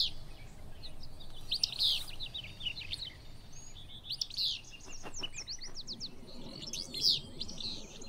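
Willow flycatcher singing its sharp two-part "fitz-bew" song, repeated about four times with pauses of two to three seconds between.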